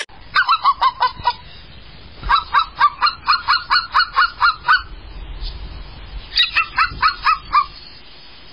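Rapid goose-like honking in three runs of quick, repeated honks, about five a second, with short pauses between the runs.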